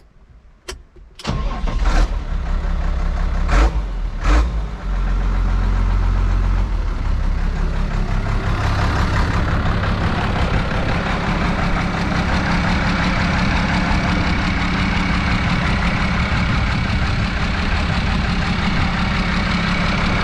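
New Holland 7840 tractor's diesel engine starting with a couple of sharp catches in the first few seconds, then settling into a steady idle.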